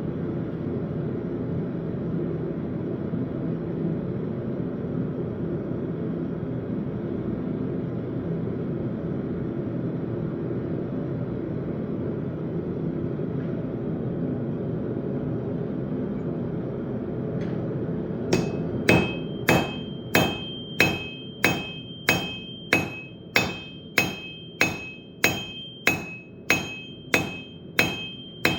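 A steady low drone for about the first eighteen seconds, then a blacksmith's hammer starts forging steel on an anvil: even blows at about one and a half a second, each with a bright metallic ring.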